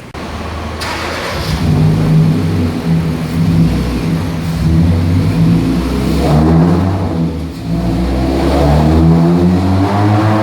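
Hyundai HB20 1.6 four-cylinder engine revving hard under load on a chassis dynamometer, with a loud exhaust note. Its pitch climbs, drops briefly about seven seconds in, then climbs again. The car runs an aftermarket exhaust with the second catalytic converter removed.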